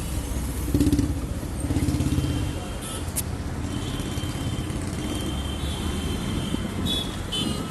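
Busy road traffic: a steady rumble of engines and tyres, with a few short horn toots.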